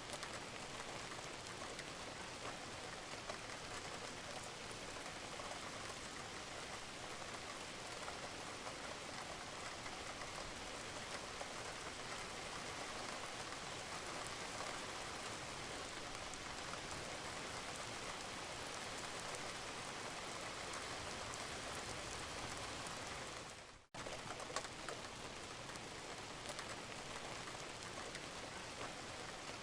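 Steady rain falling on a roof, with scattered drips of water. The sound cuts out for an instant about three-quarters of the way through, then carries on.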